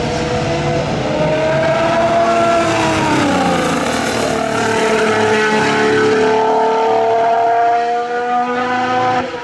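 Formula 1 cars' 1.6-litre turbocharged hybrid V6 engines running on track, their pitch falling over the first few seconds and then climbing slowly.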